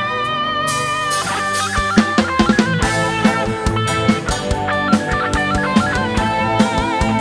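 A band playing a song's instrumental intro: a lead guitar melody with vibrato over bass, with the drum kit coming in about two seconds in and keeping a steady beat.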